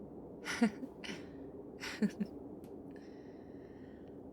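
A woman's soft breaths and short wordless sounds close to the microphone, over a steady low background hum. A faint high steady tone comes in about three seconds in.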